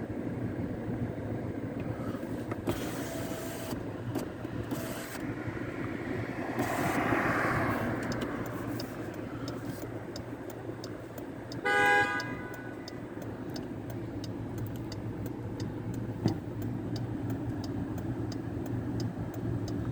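Steady road noise and engine hum inside a moving car, with a noise swell a few seconds in and one short car horn honk near the middle.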